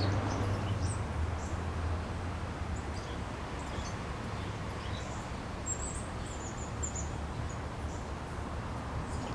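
Small birds chirping in short, high calls, a run of them about six to seven seconds in, over a steady low outdoor rumble.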